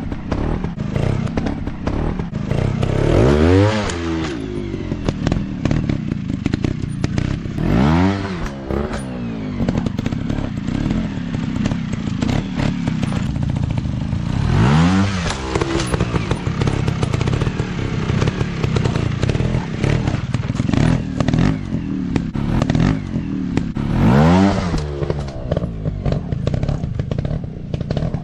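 Dirt bike engines running and revving in short bursts, the pitch climbing and falling back about four times over a steady engine drone, with scattered knocks throughout.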